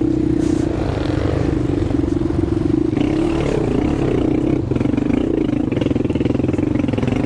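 Racing quad (ATV) engine running at fairly steady revs, with a couple of brief dips in pitch partway through.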